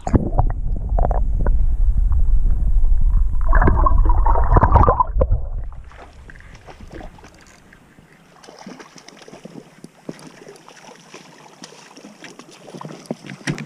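Water splashing and sloshing as a bull trout is released back into the river, over a heavy low rumble of wind and handling on the microphone. After about six seconds it drops to a quiet river background with scattered light clicks.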